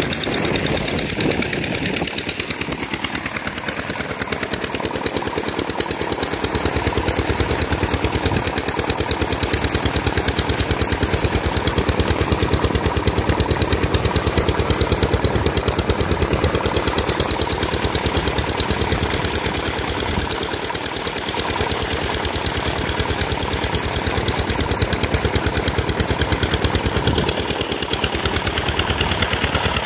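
Diesel engine running steadily with a fast, even exhaust beat, driving a borewell water pump.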